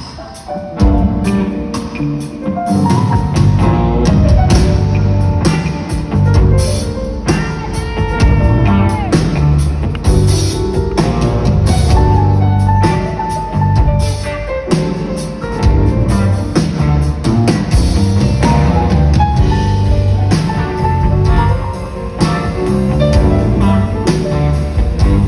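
Live pop-rock band playing, led by drum kit and guitars over bass, with a steady beat and no singing.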